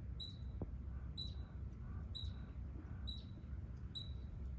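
A short, high animal chirp that drops sharply in pitch, repeated about once a second, over a steady low rumble of background noise.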